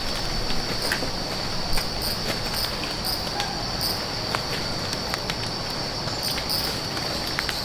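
Insects chirring in one steady, unbroken high-pitched drone, with scattered faint clicks and ticks over it.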